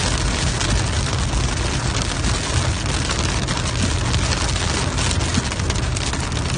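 Heavy rain pouring down, a steady dense hiss with a strong deep rumble underneath.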